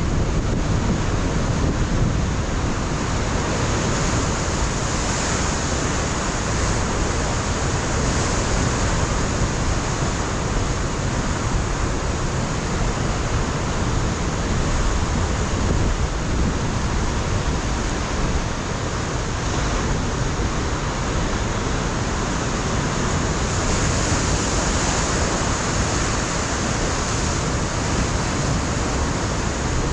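Ocean surf crashing and washing against a rocky shore: a steady, dense rush that swells and eases slowly, with wind buffeting the microphone low down.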